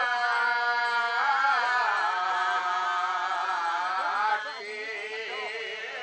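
Balinese ceremonial chanting: a voice sings long, wavering held notes. The louder line drops away suddenly a little over four seconds in, and a quieter chant carries on beneath it.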